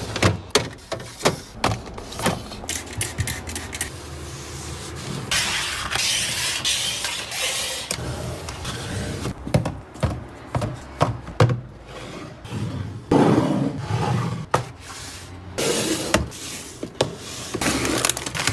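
Food containers and packaging being handled and set down: a string of clicks and knocks, with stretches of rustling and scraping about five seconds in, around thirteen seconds and near the end.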